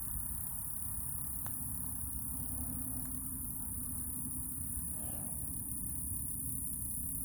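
Honey bees buzzing at the hive, a steady low hum, with a steady high-pitched whine above it and two faint clicks about one and a half and three seconds in.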